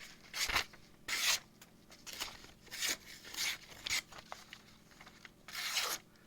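Freshly sharpened S35VN steel knife blade slicing through paper in about six or seven short, hissing strokes, irregularly spaced.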